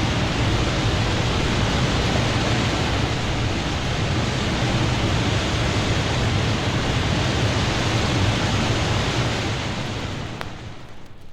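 Steady, even rushing noise, deep and full, that fades out about ten seconds in, leaving faint vinyl surface clicks.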